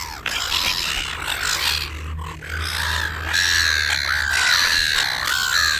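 Several wild birds calling loudly, with overlapping harsh and gliding squawks. The birds are noisy because food is being held out to them by hand.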